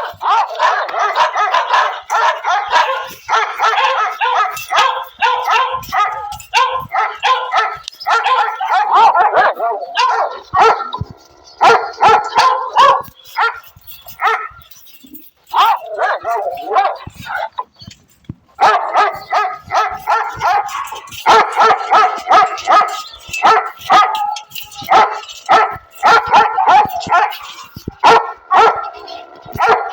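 A dog barking rapidly and over and over, in long runs broken by two short pauses past the middle.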